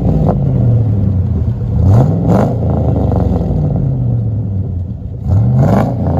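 Chevy 6.0-litre V8 breathing through a Magnaflow Magnapack straight-through muffler, revved twice in quick blips, each rising fast and then settling back slowly toward idle. The deep exhaust note is mixed with audible cold air intake noise.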